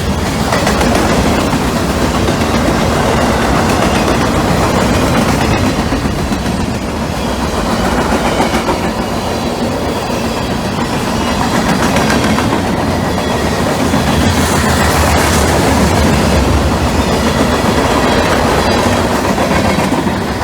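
A train rolling past close by, with steady loud noise of wheels on rails.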